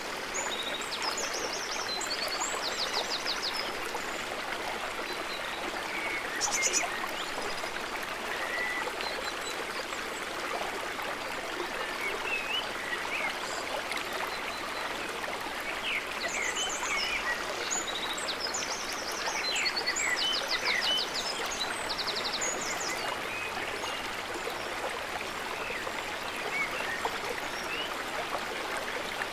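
River water running steadily, a constant rushing hiss. High, rapid chirps and trills break in at intervals, in clusters near the start and again just past the middle.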